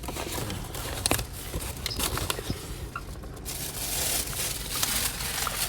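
Paper takeout bag and food wrappers rustling and crinkling as they are handled, with scattered small clicks; the rustling grows denser in the second half.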